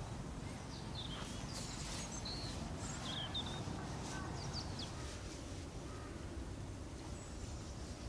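Outdoor ambience: a low steady rumble with birds chirping now and then, mostly short high chirps between about one and five seconds in.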